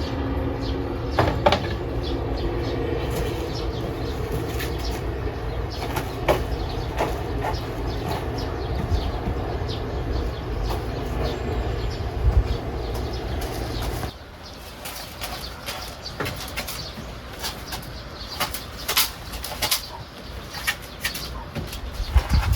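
Chickens in a coop flapping their wings and clucking, over a steady low rumble that stops suddenly about two-thirds of the way in, followed by scattered sharp clicks and knocks.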